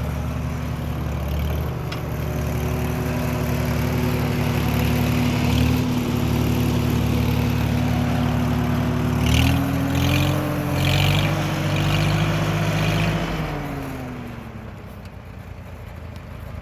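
1949 Farmall H tractor's four-cylinder engine running steadily, then revving up about halfway through, holding the higher speed for a few seconds and dropping back toward idle near the end.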